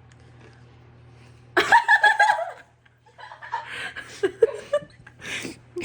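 Laughter starts loudly about a second and a half in, then goes on in shorter, broken spells, over a low steady hum.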